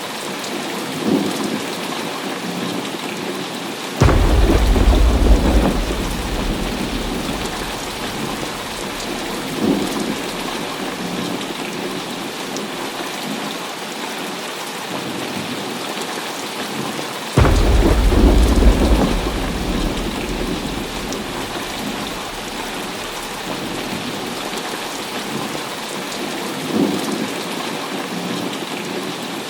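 Heavy rain falling steadily with thunder. Two sudden loud claps about 4 and 17 seconds in rumble and fade over a few seconds, with lighter rolls of thunder in between.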